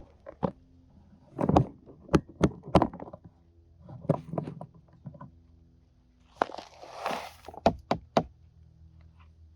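A run of irregular knocks and thuds, with a short rustling scrape about two-thirds of the way through.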